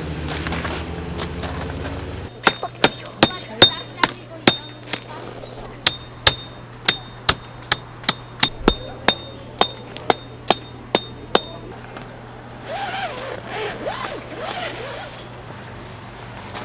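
Tent pegs being hammered into the ground, each blow a sharp strike with a short metallic ring. A run of about six blows is followed after a short pause by about a dozen more at roughly two a second.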